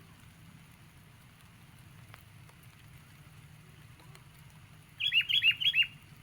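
Sooty-headed bulbul (kutilang) giving a quick run of about five chirping notes, each dropping sharply in pitch, about five seconds in.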